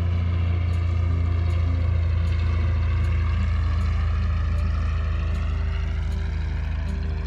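A motor engine running steadily, with a strong low hum and higher tones that slowly drift up and down in pitch.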